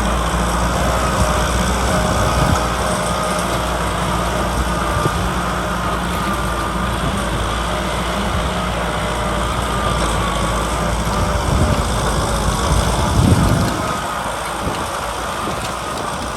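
Kubota diesel tractor engine running steadily under plowing load: a low drone with a faint wavering whine above it, easing slightly in level about 14 seconds in.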